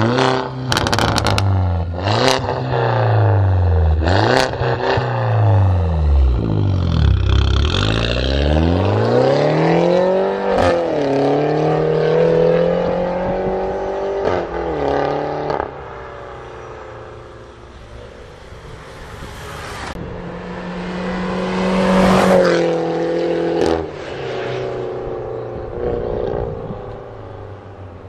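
Peugeot RCZ's 1.6 THP turbocharged four-cylinder engine revving through a full aftermarket exhaust system with downpipe. The pitch falls and rises several times with sharp cracks at first, then climbs and holds, eases off, climbs again and drops suddenly near the end.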